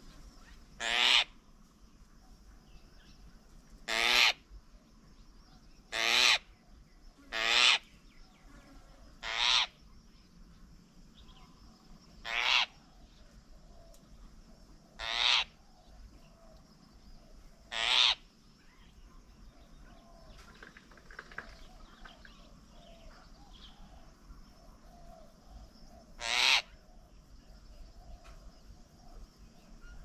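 A bird's harsh, rasping call, each about half a second long, repeated nine times at uneven intervals, with a long pause in the second half.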